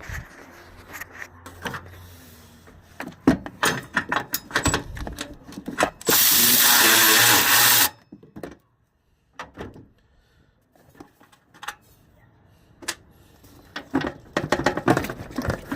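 A power drill runs in one steady burst of about two seconds, about six seconds in, backing out a fastener that holds the headlight bezel. Scattered clicks and knocks of tools and parts being handled come before and after it.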